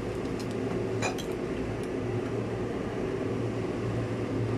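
A few light metallic clinks of kitchenware, such as a utensil against a cooking pot, about half a second in and again about a second in, over a steady hum from a kitchen appliance or fan.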